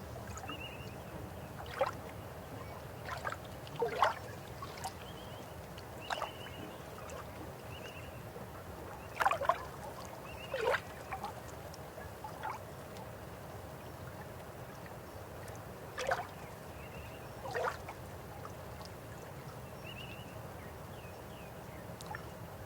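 River water flowing steadily, with a dozen or so short, sharp sounds scattered irregularly over it, several of them sliding quickly down in pitch.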